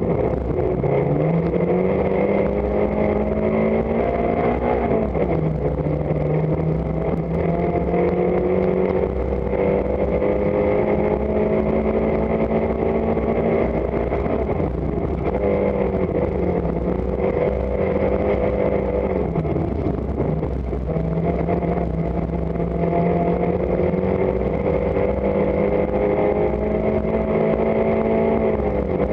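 Rally car engine heard from inside the cabin, driven hard on a stage. The revs climb, drop sharply at a gear change about five seconds in, dip again around the middle as the driver lifts, then climb once more.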